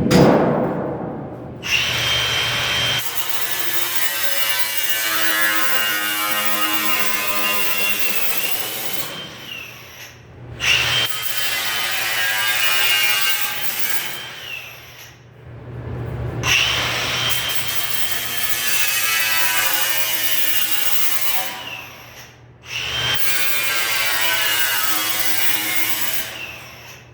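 Handheld power drill running in four long bursts of several seconds each, with short pauses between; the pitch sags as each burst winds down.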